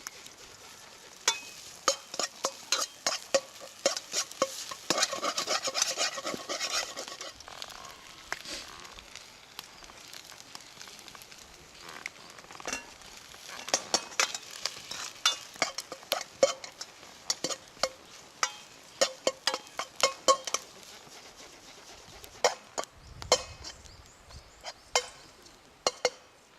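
Food being stir-fried in a pan, a metal utensil clicking and scraping against it several times a second over steady sizzling. The sizzle swells for a few seconds near the start.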